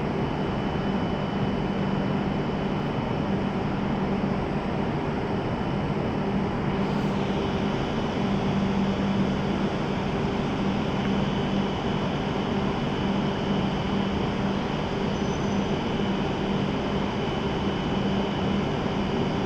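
Steady hum and hiss of a stationary E7 series Shinkansen train, its on-board equipment running while it stands at the platform.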